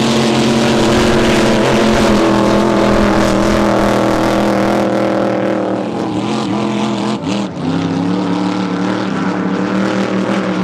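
Drag boat's racing engine running loud and steady. About seven seconds in the pitch wobbles briefly, then it settles again at a slightly lower pitch.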